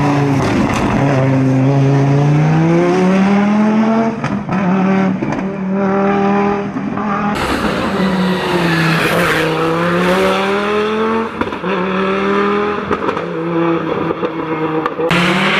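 Audi Quattro S1 rally car's turbocharged five-cylinder engine at full stage pace, its pitch rising and falling over and over as it accelerates, shifts and brakes, with brief lifts of the throttle about four, seven and eleven seconds in.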